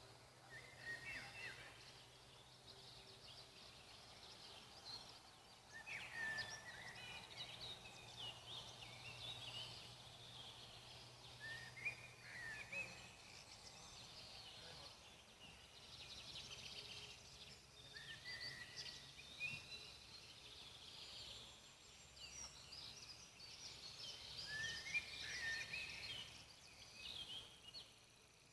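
Songbirds singing in the background in repeated bouts of short chirps and quick slurred whistles, faint over a low steady hiss of forest ambience.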